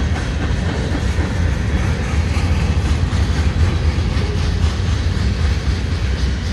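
Freight cars (empty gondolas and boxcars) rolling past at close range: a steady, heavy rumble of steel wheels on rail, with scattered faint clicks.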